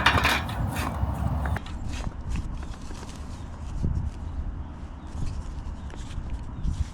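Scattered light clicks and low knocks, like things being handled. The first second and a half carries a louder, even rush of noise that cuts off suddenly.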